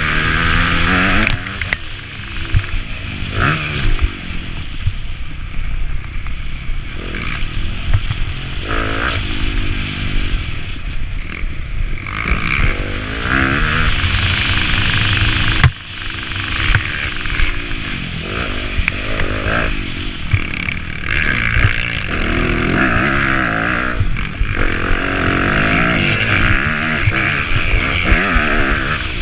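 Motocross dirt bike engine revving hard and easing off again and again as it rides the track, its pitch sweeping up and down. A sharp knock comes about halfway through.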